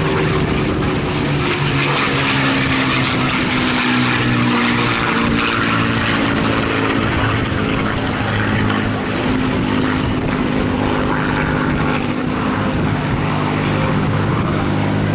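A Supermarine Spitfire Mk IX, its Rolls-Royce Merlin V12 engine and propeller running steadily in a display flypast. The engine note slides gently down in pitch over the first several seconds as the aircraft passes.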